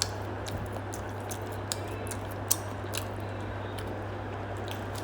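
A person chewing food with soft wet mouth clicks scattered through, over a steady low hum.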